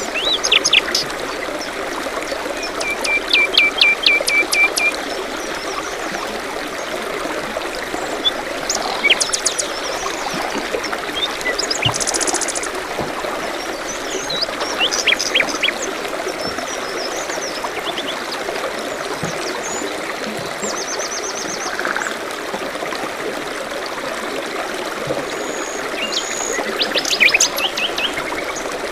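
A small stream trickling steadily, with various songbirds chirping and trilling over it, including several short runs of rapid repeated notes.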